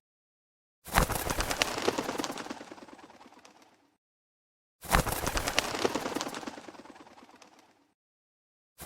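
Wood fire crackling in repeated bursts, about every four seconds. Each burst starts suddenly with thick popping and crackling that fades over about three seconds, then cuts to silence before the next.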